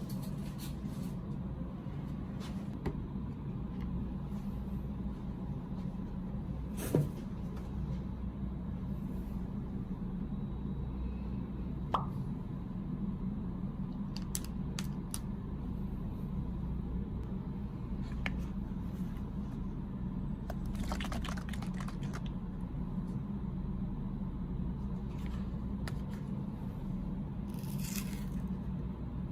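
A steady low hum with a few small, scattered clicks and taps of something being handled, the sharpest about seven and twelve seconds in.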